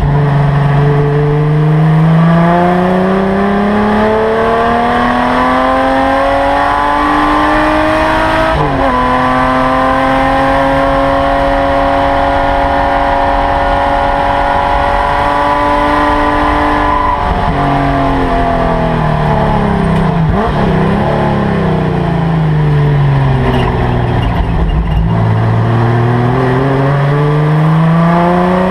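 Holden LC Torana GTR XU-1 race car's straight-six engine heard from inside the cabin under racing load. The revs climb, jump sharply just past a quarter of the way in, and hold steady for several seconds. They then fall away as the car slows, with a few wavering blips, and climb again near the end.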